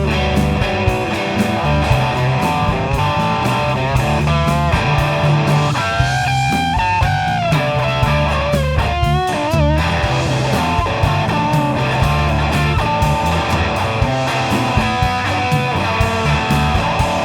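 Rock band playing an instrumental break: an electric guitar lead with bent, wavering notes over a steady bass line and drums.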